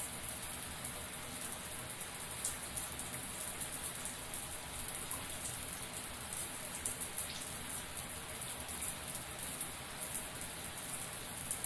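Shower running steadily: a constant hiss of spray with many small droplets pattering on a surface.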